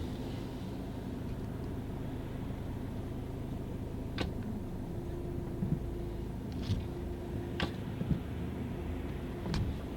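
Car engine idling with a steady low rumble, and a few short, light clicks over it.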